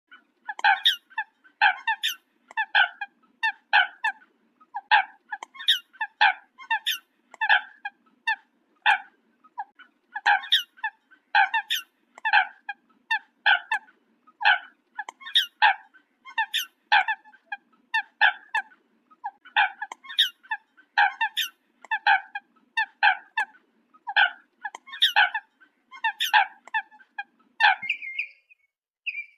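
An animal's short, sharp pitched calls repeated steadily about twice a second, over a faint low hum; near the end they give way to higher chirping.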